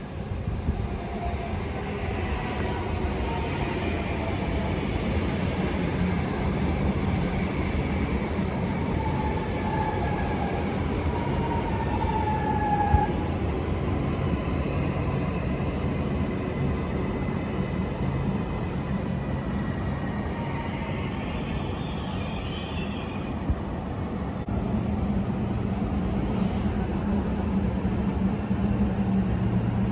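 Train running along the track: a steady rumble with faint high squealing tones that drift in pitch, and a deeper hum that grows louder about two-thirds of the way through.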